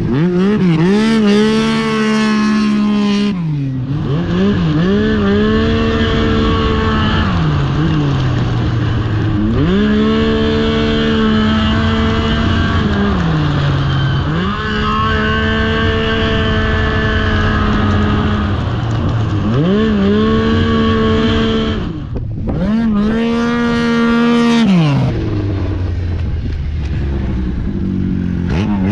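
Racing snowmobile engine accelerating and backing off lap after lap. Its pitch climbs and holds high down each straight, then falls away into the corners, about five times over, with a short break a little past two-thirds of the way through.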